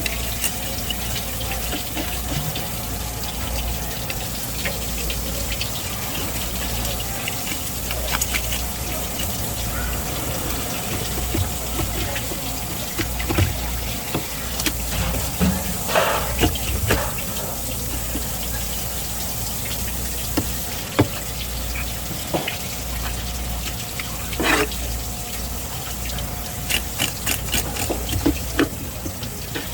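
Tap water running steadily, with scattered knocks and clicks from handling fish and knife.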